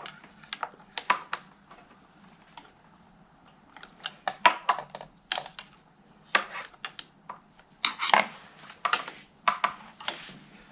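Irregular clicks and clinks of hand tools and small metal parts being handled while motorcycle handlebar controls are taken apart. They come in several quick bursts with short pauses between.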